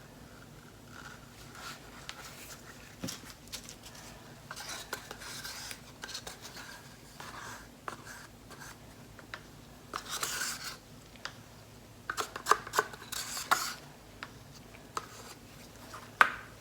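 Handling noises of plastic paint bottles and a mixing cup while acrylic paint is layered into the cup: scattered clicks, taps and short scrapes, busiest about twelve to fourteen seconds in, with a sharp click near the end.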